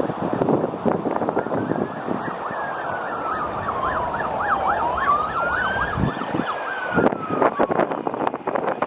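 Emergency vehicle siren sweeping slowly up and down, switching to a rapid yelp for a couple of seconds in the middle. Gusty wind buffets the microphone throughout.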